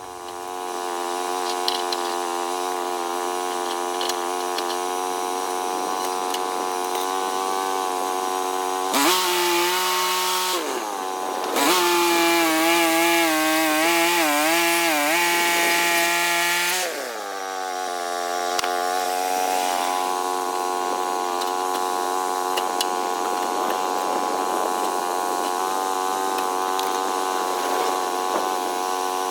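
Woodland Mills band sawmill's gas engine running at steady high speed, with the band blade cutting through a log. About a third of the way in the cut gets louder, and for several seconds the engine note dips and wavers under the load before it settles back to a steady run.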